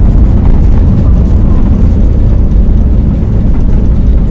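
Steady, loud rumble of airliner cabin noise in flight, heaviest in the low end.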